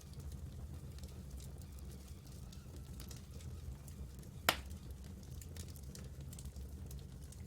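Campfire burning with scattered faint crackles over a low steady rumble, and one loud sharp pop from the burning wood about four and a half seconds in.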